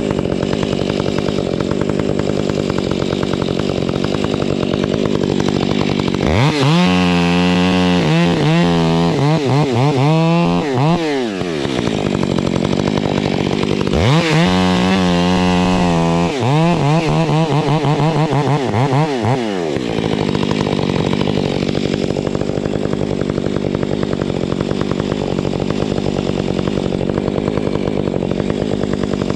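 Chainsaw engine running steadily, then twice revved up hard for several seconds, its pitch rising and sagging as it works, before dropping back to a steady run.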